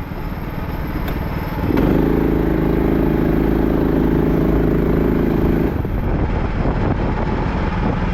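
Go-kart engines running. From about two seconds in, one engine holds a steady note for roughly four seconds, then drops back into the general engine noise.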